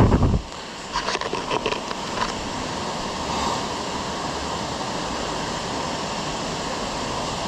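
Steady rush of creek water running over rocks. A low thump comes right at the start, and a few sharp clicks or knocks follow about one to two seconds in.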